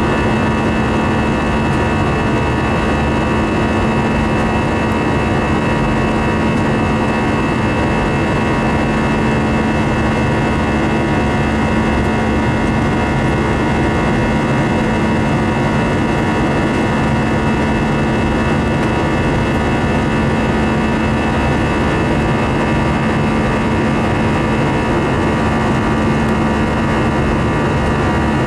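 Cabin noise of an Airbus A319-115 jet airliner in flight: a steady roar of jet engines and airflow, heard from inside the cabin, with a steady low hum through it.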